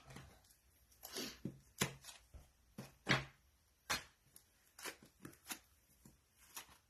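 Craft supplies being moved around on a tabletop: a dozen or so light, irregular taps and clicks as items are picked up and set down.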